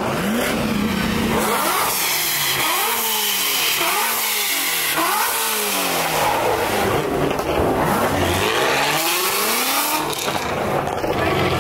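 A car engine being revved again and again, its pitch climbing and dropping back in a series of quick blips.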